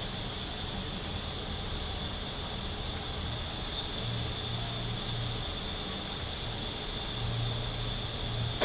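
Steady background hiss with a low hum underneath, and no distinct tool strikes or other separate events.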